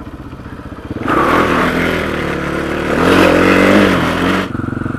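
Rally motorcycle engine running low, then revved hard from about a second in, its pitch rising and falling, with a loud rushing noise over it, and settling back down near the end.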